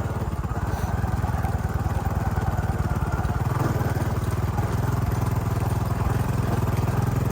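Motorcycle engine running steadily under way, with a rapid, even exhaust beat; the level rises slightly about a second in.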